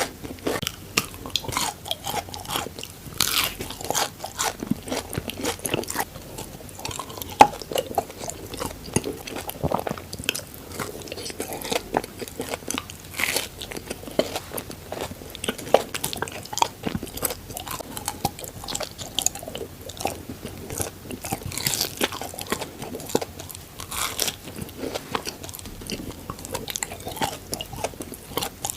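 Crunchy bites and chewing of Dubai chocolate, a chocolate bar filled with crispy kataifi pastry and pistachio cream, with many irregular sharp crunches throughout.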